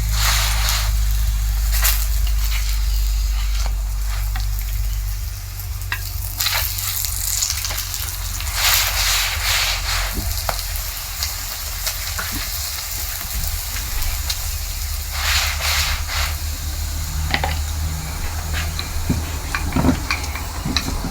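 Chapati frying on a hot pan: sizzling that swells in several hissing surges, with scattered light clicks and scrapes. A steady low rumble runs underneath.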